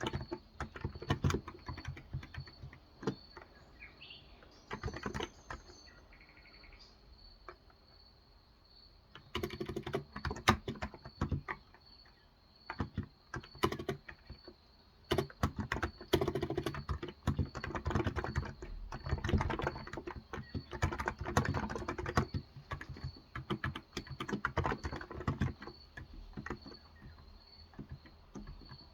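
Continuous typing on a Cox Endeavor electrostatic capacitive (Topre-style) tenkeyless keyboard with light 35 g keys. The keystrokes come in quick runs, with a pause of a few seconds about a quarter of the way in. Faint bird chirps can be heard in the background.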